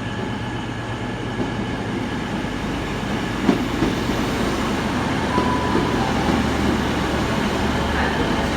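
Class 150 Sprinter diesel multiple unit arriving at the platform, its diesel engine humming steadily over the rumble of wheels on rail, growing a little louder. A single knock from the wheels comes about halfway through.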